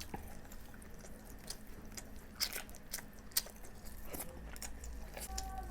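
Close-miked chewing and mouth sounds of someone eating: irregular wet smacks and clicks. Steady background music tones come in near the end.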